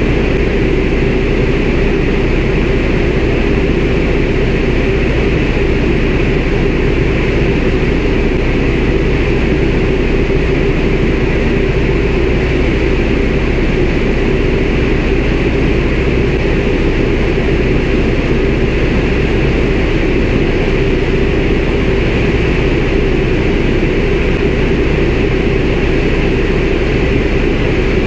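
CAC Winjeel's nine-cylinder Pratt & Whitney R-985 Wasp Junior radial engine and propeller droning steadily in cruise, heard from inside the cockpit.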